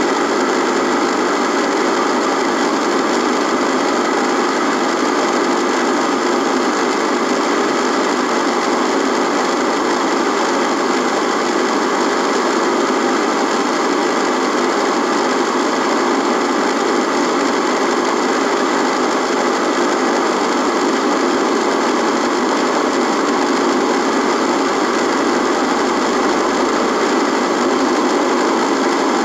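Radio buzzing: a steady, unchanging static buzz with a few faint steady tones running through it.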